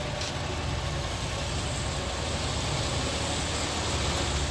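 Heavy diesel engine running steadily at idle, a low even throb that grows slightly louder near the end.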